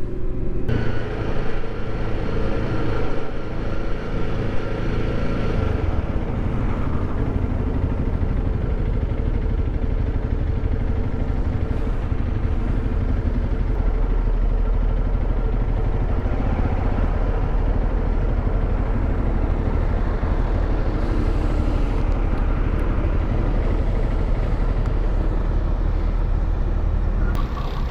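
Adventure motorcycle riding at a steady road speed: the engine runs evenly under a continuous low rumble of wind and road noise.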